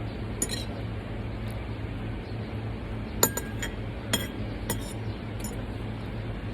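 Spoons and cutlery clinking against plates and glassware while eating: about six sharp clinks, one near the start and the rest bunched in the middle. A steady low hum runs underneath.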